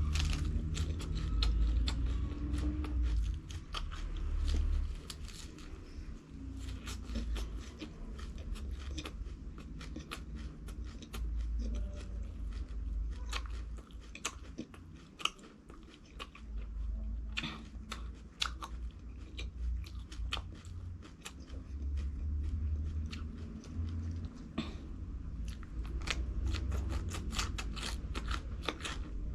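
Close-miked eating: biting and crunchy chewing, with many sharp crunches throughout over a low rumble.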